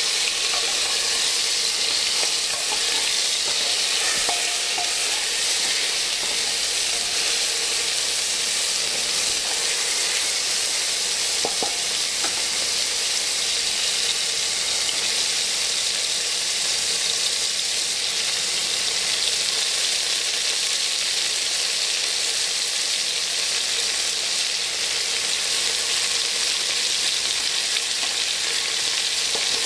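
Food frying in hot oil in a pan, with a steady sizzle.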